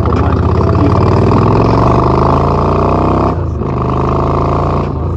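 Honda cruiser motorcycle engine pulling under acceleration, its pitch rising for about three seconds. A short break comes about three and a half seconds in, then it runs on at a steadier pitch.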